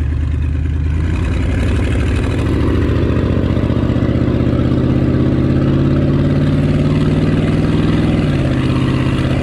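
Vehicle engine pulling steadily, its pitch rising gradually as it accelerates, then dropping suddenly about eight seconds in as it shifts up a gear.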